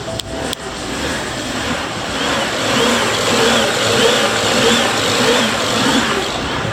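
BMW N54 3.0-litre twin-turbo straight-six running, with a couple of sharp clicks just after the start. From about two seconds in the engine note rises and falls repeatedly, about every half second or so, as the throttle is blipped.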